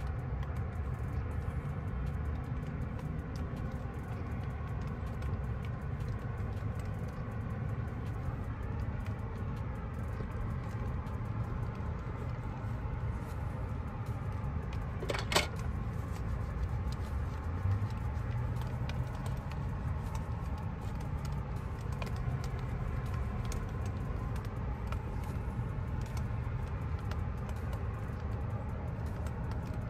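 Rain falling outside an open van door: a steady low rumble of noise with scattered faint drops ticking, and one sharp click about halfway through.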